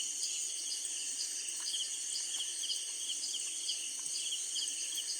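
Chorus of night insects: crickets chirping in rapid repeating pulses over a constant high-pitched trill, with a few faint clicks.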